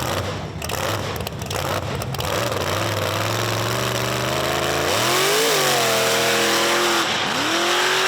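Mega truck engine revving hard under load, its pitch climbing steadily from about three seconds in, peaking, dropping briefly, then climbing again near the end.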